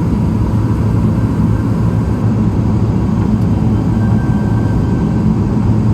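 Steady low rumble of cabin noise inside a Boeing 777-300ER airliner, with a faint steady tone above it.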